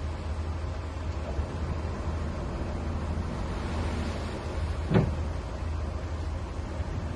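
Small bulldozer's diesel engine running steadily under work, with one sharp knock about five seconds in.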